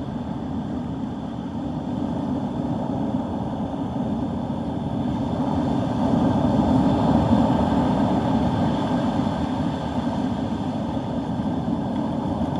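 Steady wind rumbling on the microphone over the noise of storm surf, a little louder around the middle.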